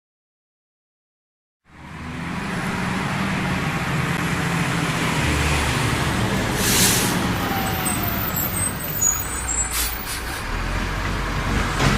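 After almost two seconds of silence, a truck engine starts to be heard running steadily amid road traffic. About seven seconds in there is a short burst of air hiss, and a fainter one comes near ten seconds.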